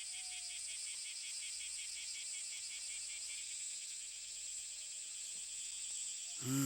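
Cicadas droning: a steady high buzz with a rapid, even pulsing under it. A voice begins right at the end.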